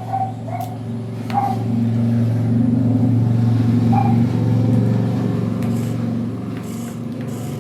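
Small electric gear motors of a homemade RC tractor running steadily, a low hum that swells in the middle and eases off, with a few light clicks.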